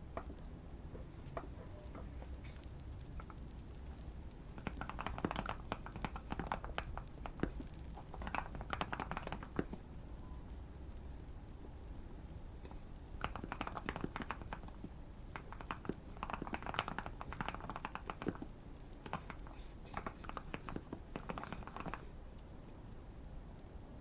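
Typing on a modded Keychron Q1 mechanical keyboard in five short runs of rapid keystrokes with pauses between, over a steady fireplace crackle.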